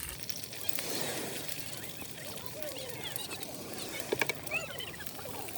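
Busy outdoor campground background: faint, distant voices and short calls over a steady hiss, with a few sharp clicks about four seconds in.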